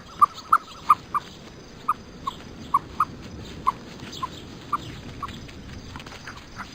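A dog whimpering: a string of short, high-pitched whines, roughly two a second.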